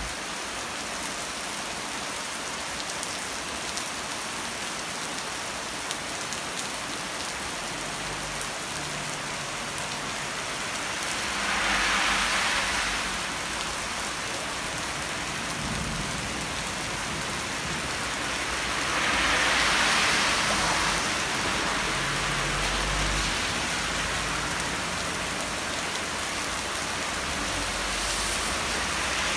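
Heavy rain pouring down onto wet pavement in a steady hiss, swelling louder twice, about twelve and twenty seconds in.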